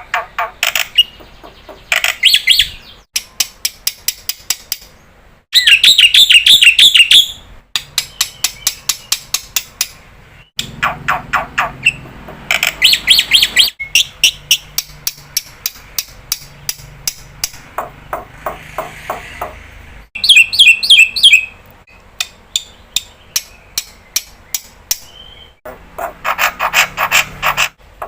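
Black-winged myna (jalak putih) singing loudly in repeated bursts of rapid chattering notes, the loudest bursts about six and twenty seconds in.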